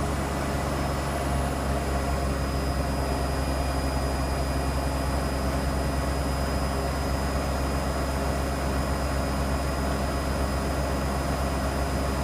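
Hoover Nextra HNWL7146 washer dryer drum spinning at high speed on its final spin, set to 1400 rpm: a steady motor hum with a faint high whine, holding speed evenly.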